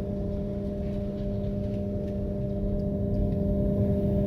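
A steady droning hum of an idling engine over a low rumble, growing slightly louder near the end.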